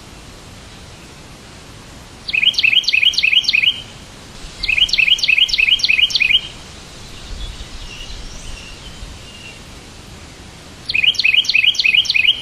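A songbird singing three bursts of fast, evenly repeated high chirps, each burst lasting one to two seconds, with softer calls in between, over a steady background hiss.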